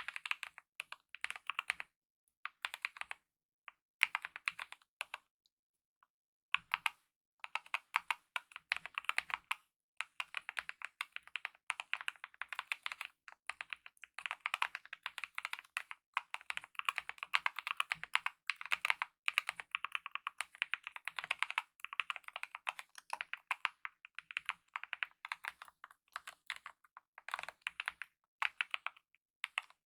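Typing on a Kemove mechanical keyboard with lubed optical red linear switches and DSA-profile keycaps: rapid keystrokes in bursts, with short pauses, the longest of about a second around six seconds in.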